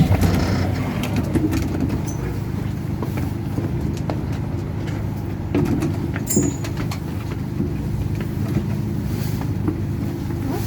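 Tram running along its rails: a steady low rumble with scattered light clicks, and a brief high squeal about six seconds in.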